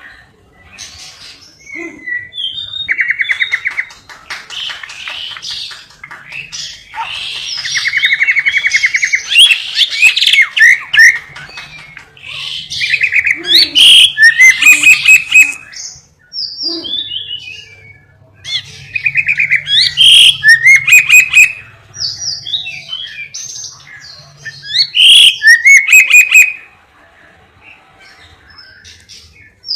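Lovebird singing a song filled with canary-style phrases: rapid chirps, whistles and buzzy trills. The song comes in about five loud bursts of a few seconds each, separated by short pauses.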